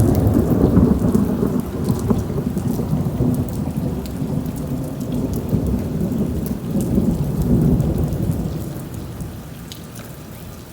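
Rolling thunder over rain. The low rumble is loudest at the start, swells again about seven seconds in, then fades away near the end, with scattered raindrop ticks above it.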